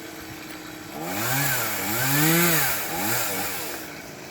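Two-stroke chainsaw idling, then revved up and down about three times from about a second in.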